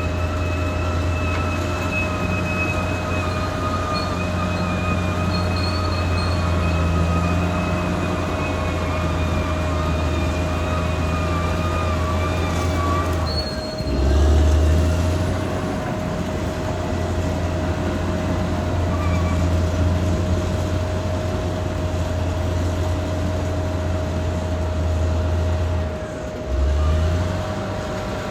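Caterpillar D6R XL bulldozer's diesel engine running steadily under working load, with a steady whine above the engine note. Twice, about 14 and 26 seconds in, the engine note dips briefly and comes back louder.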